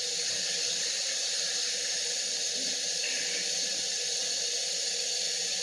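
Kitchen tap running steadily, water splashing into the sink while it is run cold to fill a drinks bottle.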